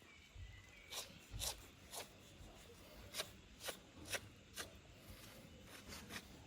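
A string of light, sharp clicks and taps at an uneven pace, roughly one or two a second, over faint rustling.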